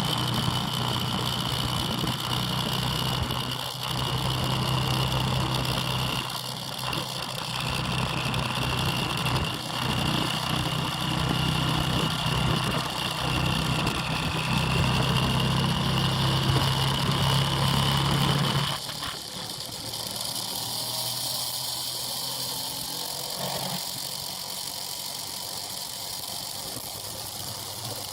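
Motorbike engine running at a steady speed, with a high steady whine above its hum; it cuts off suddenly about two-thirds of the way through, leaving a quieter hiss.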